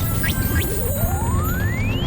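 Cartoon sound effect: a single whistle-like tone gliding steadily upward in pitch over a low rumble, with background music.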